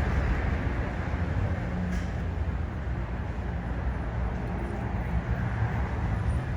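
Steady street traffic noise: a vehicle engine's low rumble with the hiss of passing traffic.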